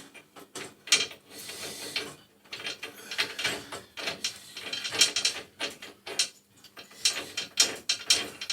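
Hand tools working a threaded gas pipe fitting being put together: a dense, irregular run of metal clicks and short rasps, with a brief scrape about a second in.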